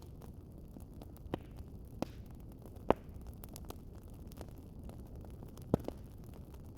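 Wood fire crackling: a steady low rumble with scattered sharp pops, the loudest about three seconds in and a quick pair near the end.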